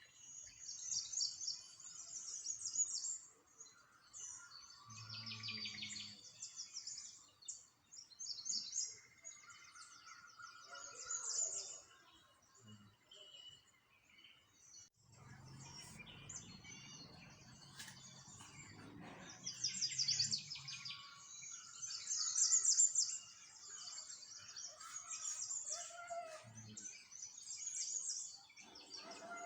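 Small songbirds chirping and twittering in quick, high-pitched trills, several overlapping. A low rumble sits beneath them for several seconds around the middle.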